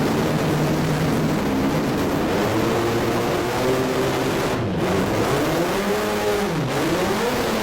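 Turbocharged multi-rotor rotary engine free-revving under boost, held high and then dropping and climbing again twice in the second half. The engine was not firing on all rotors.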